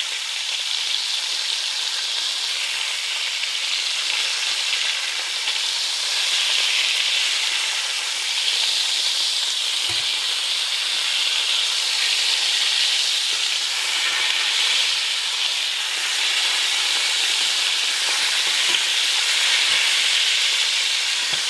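Turkey liver searing in browning butter in a nonstick frying pan: a steady sizzle as the dried surface of the liver crusts over almost at once.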